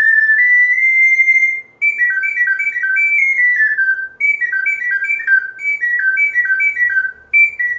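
Soprano C ocarina playing a fast melodic passage high in its range. It opens on a long held note that steps up twice, then moves into quick, repeated runs of three falling notes.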